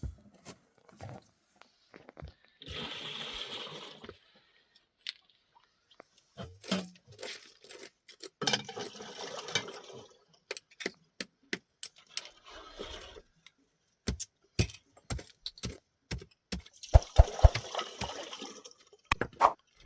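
Liquid splashing in three short bursts, with scattered clicks and knocks in between.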